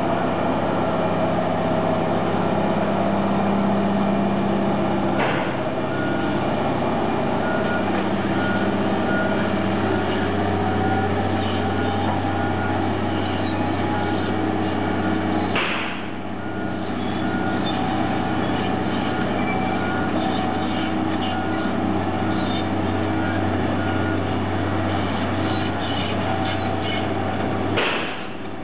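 Heavy diesel engine of a construction truck or crane running steadily. A repeating high reversing beep sounds for several seconds early on, and three short hisses come at about five seconds, midway and near the end.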